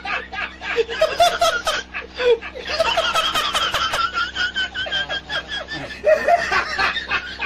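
Human laughter, a run of quick repeated laughs.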